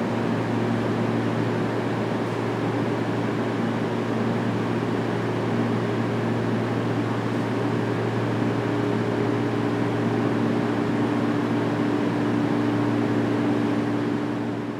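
Steady hum of a JR 211 series electric train's equipment, a low drone with a few steady tones that neither rise nor fall in pitch.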